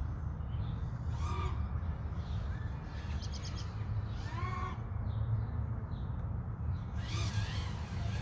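A bird calls three times, about three seconds apart, each call an arching cry, over a steady low rumble.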